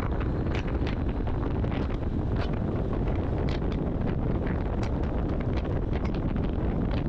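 1989 Kenworth K100E cabover truck on the move: a steady low rumble of engine and road, with wind noise on the microphone and scattered sharp clicks and rattles.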